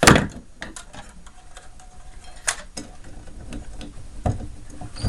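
Handling and tool noise from taking apart a mini fridge: a sharp knock at the start, then scattered light clicks and ticks, with louder knocks about two and a half and four seconds in.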